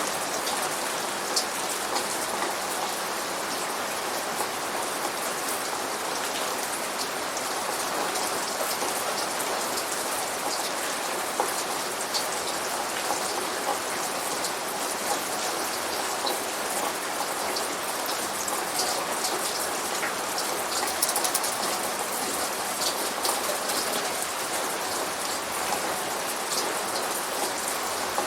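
Steady rain falling, with many small drops pattering on hard surfaces.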